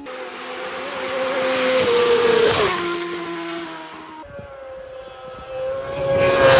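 Two superbike racing motorcycles passing at race speed one after the other, each a high, loud engine note that swells as it approaches and drops in pitch as it goes by. The first passes about two and a half seconds in; the second arrives near the end.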